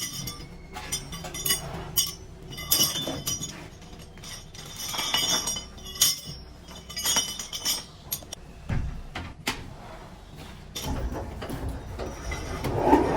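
Metal parts clinking and knocking together in irregular, ringing strikes. Near the end a motorized machine starts running steadily.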